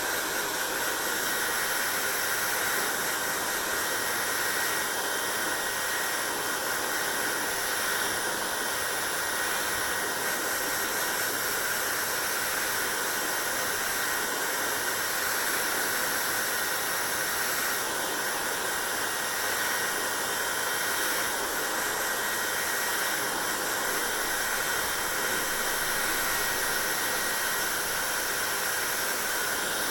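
Hair dryer running steadily, a constant blowing rush of air with a faint high steady tone over it.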